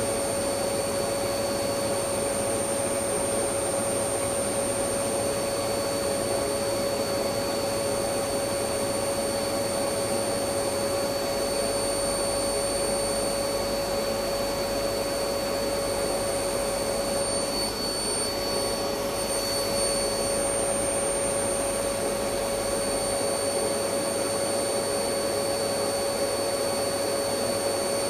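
Electric vacuum cleaner running steadily: an even rush of air with a constant motor whine that does not change.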